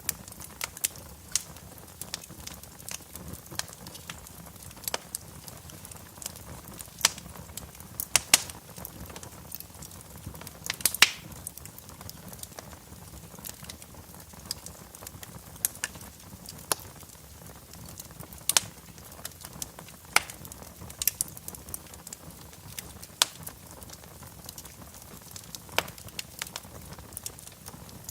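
Fireplace fire crackling: irregular sharp pops and snaps over a soft steady hiss, with the loudest snap about eleven seconds in.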